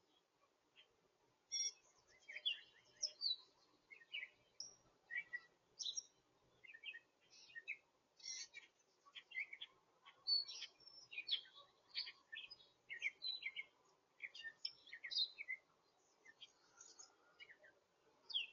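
Small songbirds chirping and twittering: a busy run of short, high notes in quick succession with brief pauses.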